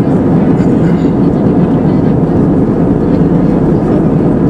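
Steady cabin noise inside an Airbus A320-232 in flight: the even roar of its IAE V2500 turbofan engines and the airflow over the fuselage.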